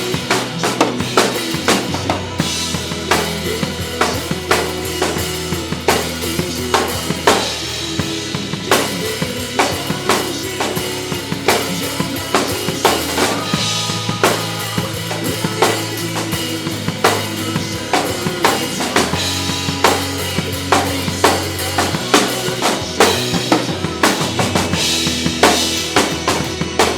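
Drum kit played live, with bass drum, snare and rimshot hits in a steady groove, over the song's instrumental backing track of sustained bass and chords; no singing.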